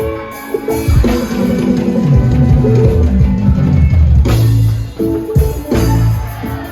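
Live band music with drum kit, guitar and heavy bass, quieter for about a second and then loud with driving drum hits.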